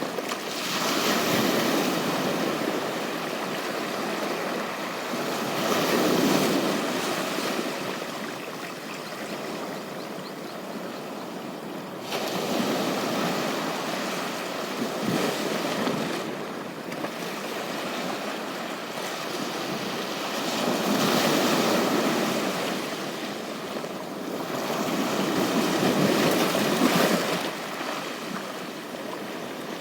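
Ocean waves washing onto a beach, the surf swelling and ebbing with each wave every several seconds.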